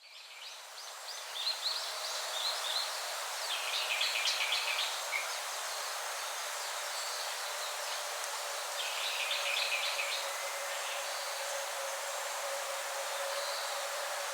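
Outdoor rice-paddy ambience: a steady hiss with a faint hum, and small birds chirping in short bursts of rapid notes, strongest around four seconds in and again around nine seconds.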